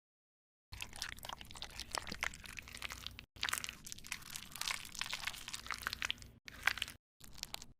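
Crisp crunching and crackling from food preparation, many small sharp clicks, in several short pieces that cut off suddenly.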